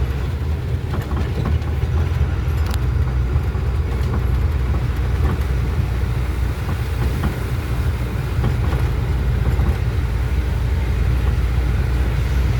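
Heavy truck running with a steady low engine rumble.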